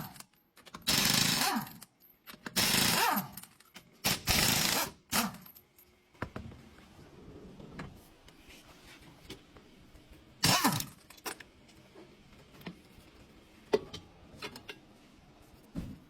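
A power tool running in short bursts of under a second: four in the first five seconds, another about ten seconds in, with faint clatter between them.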